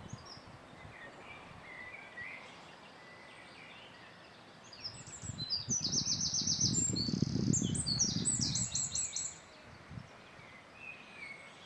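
Songbirds singing: faint chirps, then fast trilled phrases of rapidly repeated notes from about five to nine seconds in. Under the trills runs a louder low rumbling noise.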